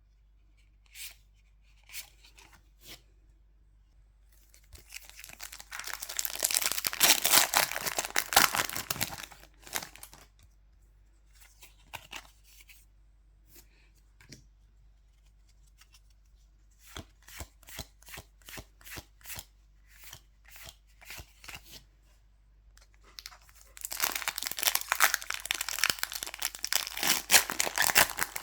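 Pokémon Prismatic Evolutions booster pack foil wrappers being torn open and crinkled by hand, in two long stretches of crackling. Between them, a run of light clicks about two a second as the cards are handled.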